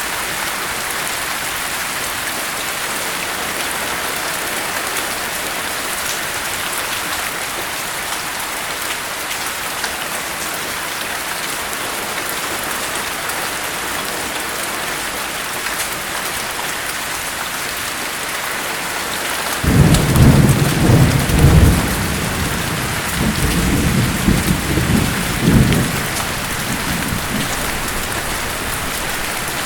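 Steady rain hissing, with a low rumble of thunder about two-thirds of the way in that rolls on for about six seconds in two surges, the first the louder.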